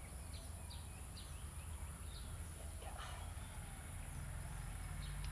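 Quiet background ambience: a steady low hum with a few short, scattered bird chirps.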